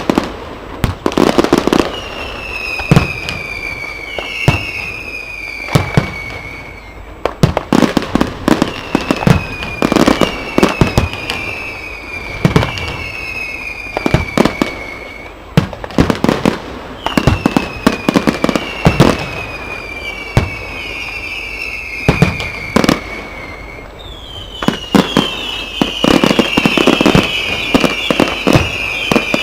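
Aerial fireworks display: sharp bangs and cracks go off throughout, along with a run of whistling shells, each whistle falling slowly in pitch over about two seconds. Near the end many whistles sound at once over a rapid run of bangs.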